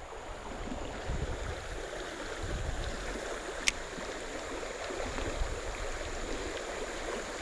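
Creek water flowing steadily through a current, with one sharp click a little past the middle.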